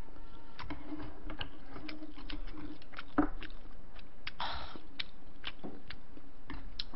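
A person chewing food close to the microphone, with many small wet mouth clicks and a low hum in the first few seconds. A sharp knock of a utensil a little after three seconds is the loudest sound, and a short breath follows about a second later.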